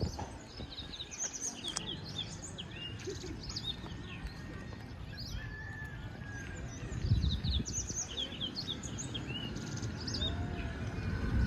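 Small birds chirping and twittering in quick, repeated high calls, over a steady low background rumble.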